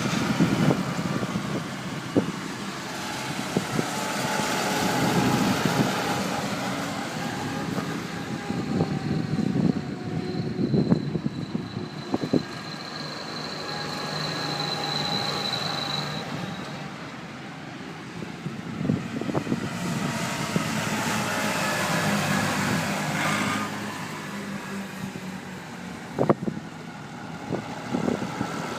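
A procession of tractors driving past one after another, their diesel engines swelling as each one comes near and fading as it goes by. There are a few sharp knocks and, about halfway through, a brief high whine.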